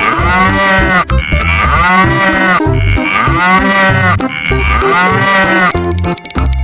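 Cow mooing about five times in a row, each moo about a second long and arching up then down in pitch, over a children's music track with a steady bass beat.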